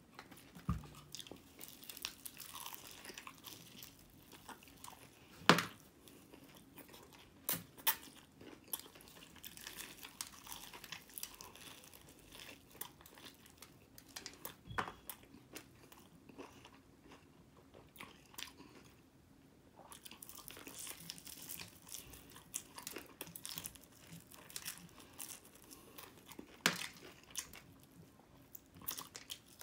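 Chewing and biting into breaded fried chicken wings, with irregular crunches and crackles throughout. The loudest is a sharp crack about five and a half seconds in.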